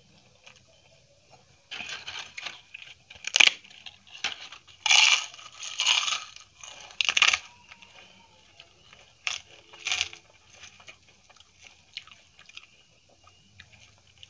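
Close-up crunching and chewing of crisp papad eaten with rice and curry, in repeated crackly bursts from about two seconds in to about ten seconds in, then only faint mouth sounds.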